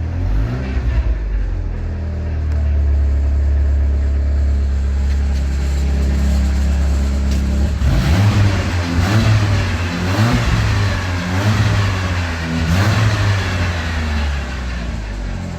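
Ford Galaxy 2.0-litre engine (code NSE) idling steadily, then revved in about five short blips, each rising and falling back, about a second apart, before it settles to idle again.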